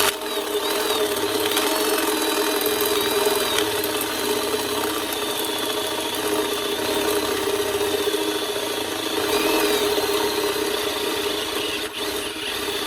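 Hand-held electric drill running at high speed, its bit cutting through a metal mounting plate in an interrupted cut, where an old offset hole leaves only the cutting lips biting. A steady motor hum carries a wavering high-pitched squeal from the cut.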